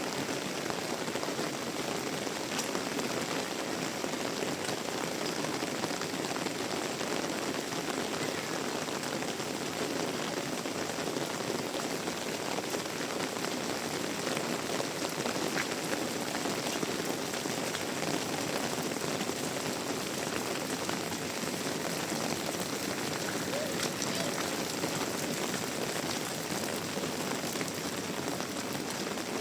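Heavy rain falling steadily on surfaces, an even, unbroken hiss of drops.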